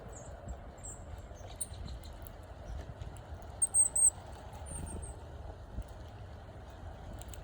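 Small birds giving short, very high chirps: scattered single calls, then a quick run of three louder ones about halfway through, over a steady low background rumble.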